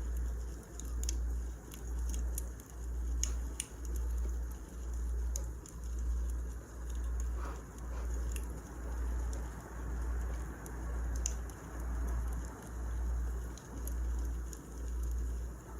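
Wood fire crackling, with scattered sharp pops, over a low throb that pulses about once a second.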